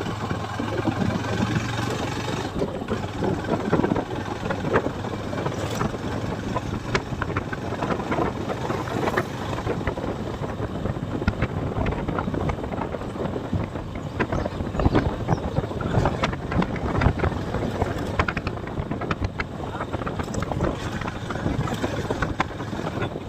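Motorcycle on the move, with wind buffeting the rider's microphone and a steady run of knocks and rattles from the bike over a rough track. A low engine hum is plain at the start.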